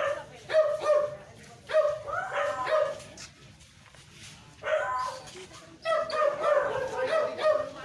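A dog barking repeatedly in short barks, pausing for about a second and a half midway, then barking almost continuously near the end.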